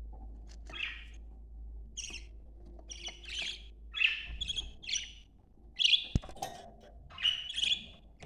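Budgerigars chirping and chattering in a run of short, high, warbled calls, about one or two a second, loudest in the second half. A single sharp click comes about six seconds in.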